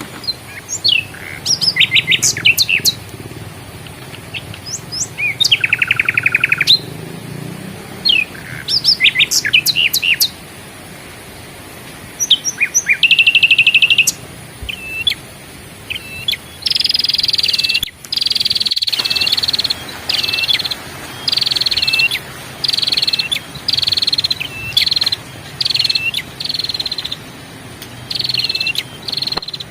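Songbirds singing: a varied run of rising whistled notes and fast trills, then about halfway through one bird repeats the same short falling call roughly once a second.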